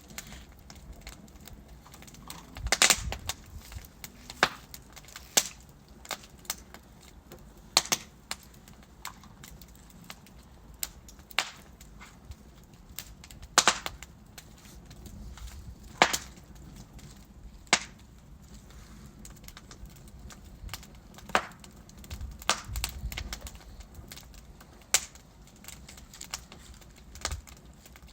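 Wood fire burning in a fireplace: logs crackling with irregular sharp pops and snaps every second or two over a soft low rumble of flame.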